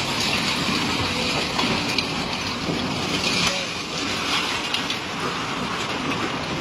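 Steady hiss of a heavy downpour, with faint voices underneath.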